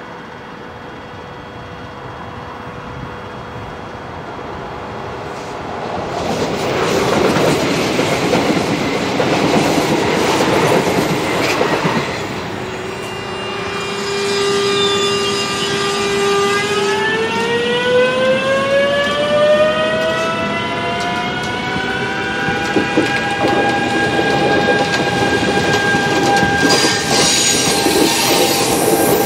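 Electric passenger train approaching and passing a level crossing. It gives a whine that holds, then rises in pitch over a few seconds and levels off. Wheel clatter and clacking over the rails grow louder near the end as the carriages go by.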